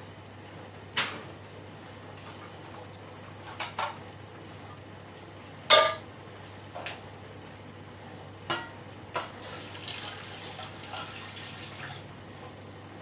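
Scattered sharp clinks and knocks of small hard objects being handled, about eight in all, the loudest about six seconds in, over a steady low hum.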